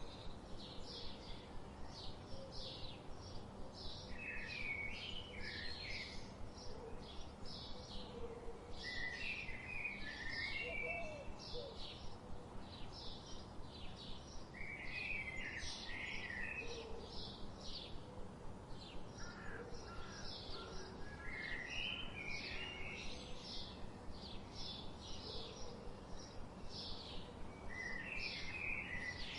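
Wild birds singing: a fast, steady stream of short high chirps throughout, with a lower warbling song phrase breaking in every few seconds, over a soft background hiss.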